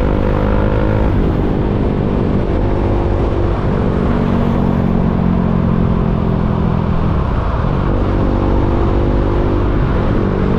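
KTM Duke 390's single-cylinder engine running in slow traffic, its note changing pitch every few seconds as the throttle opens and closes, over a constant low rumble.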